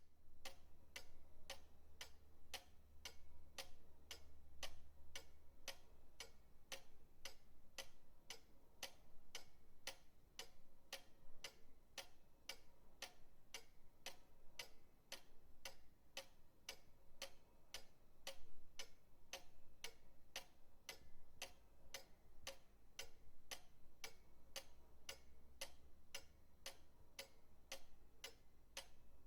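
Pendulum clock ticking steadily, about two even ticks a second, over a faint low hum.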